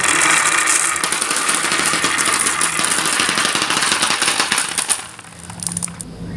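Fire crackling: a dense hiss full of fine rapid crackles that fades after about five seconds and cuts off sharply near the end.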